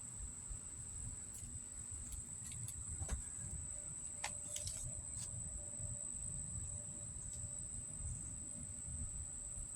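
Insects, likely crickets, trilling in a steady high-pitched chorus, with a few faint clicks between one and five seconds in.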